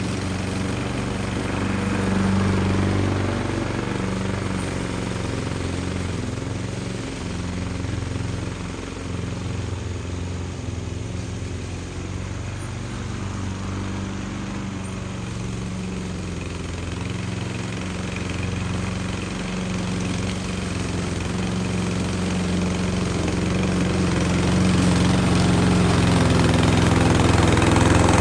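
A small engine running steadily, growing louder over the last few seconds.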